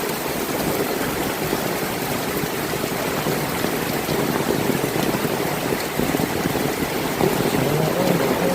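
Heavy rain falling steadily, a dense even hiss of rain on the ground and surfaces. Near the end a low, steady motor hum begins under the rain.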